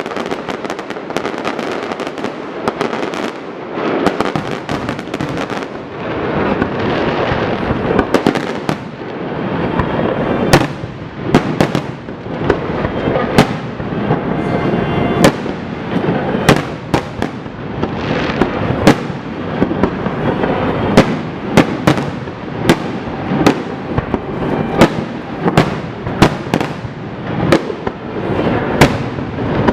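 Fireworks going off in rapid succession, sharp bangs over a continuous crackle. The bangs come thick and fast in the second half, as in a display's finale.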